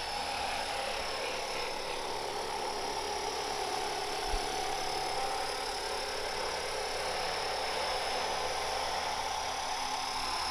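Electric 450-size RC helicopter (RotorScale AH-6) in flight: the steady high whine of its motor and drive with rotor noise, holding an even pitch. A brief low bump about four seconds in.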